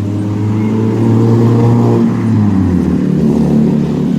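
An engine running steadily, its note shifting about two to three seconds in.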